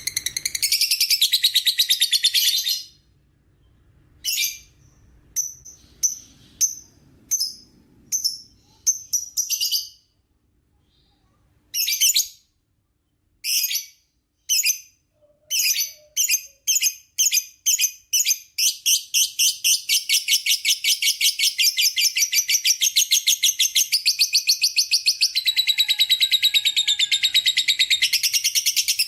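Lovebird's long 'ngekek' chatter: a rapid, high-pitched run of calls at the start. After a short pause come separate sharp calls, speeding up. From a little past the middle to the end they run together into one long, fast, continuous chatter.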